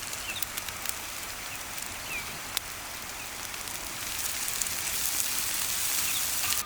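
Sliced smoked sausage frying in hot oil in a cauldron with seared vegetables: a steady sizzle with small crackles, growing louder in the last couple of seconds.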